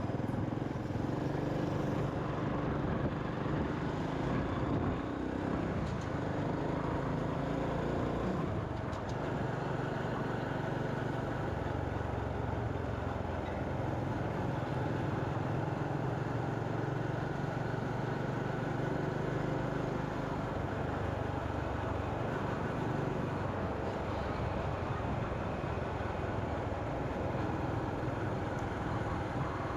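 Motorcycle engine running steadily under way, with road and wind noise; its hum shifts a little in pitch and level as speed changes.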